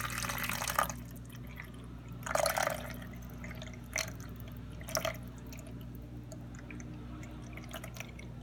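Water poured from a bottle into the water tank of an Arctic Air evaporative cooler: a splashy gush in the first second and another about two and a half seconds in, then a few single drips.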